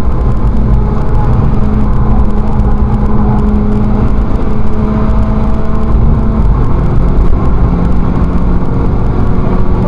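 Volkswagen Scirocco race car's engine running hard at speed, heard inside the cabin over heavy road and wind rumble; its pitch drops slightly about six and a half seconds in.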